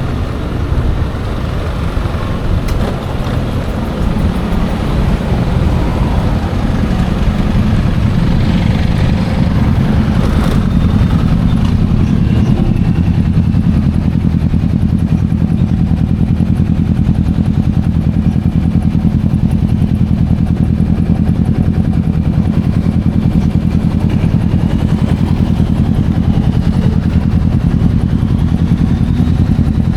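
Yamaha Aerox 155 scooter's single-cylinder engine running with road noise, then settling partway through into a steady, even idle.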